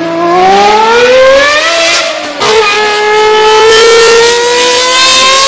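Motorcycle engine accelerating hard, its pitch climbing, then dropping sharply once about two and a half seconds in at a gear change before climbing slowly again.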